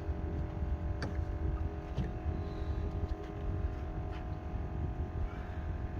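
Boat motor running steadily with a low rumble and a constant hum, with a few faint clicks.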